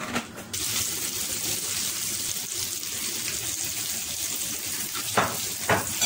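Beaten egg and sliced bitter gourd hitting hot oil in a frying pan, starting to sizzle sharply about half a second in and sizzling steadily on. Two short knocks come near the end.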